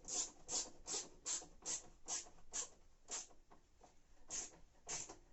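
A wrench tightening the nut that clamps a new heating element into a washing machine tub, making short rasping strokes about two to three a second, with a brief pause about three and a half seconds in.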